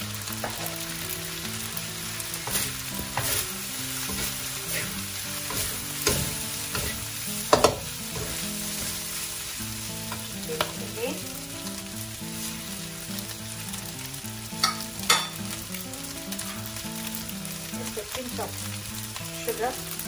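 Fried rice sizzling in a wok over a gas flame while it is stirred and turned with a metal spatula, with a steady frying hiss and scattered sharp scrapes and clinks of the spatula against the wok, the loudest a little past a third of the way in and again about three-quarters in.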